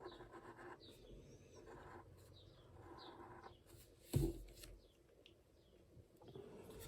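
Fine-liner pen scratching across paper in short strokes, with a small bird chirping repeatedly in the background. A single sharp knock a little past halfway is the loudest sound.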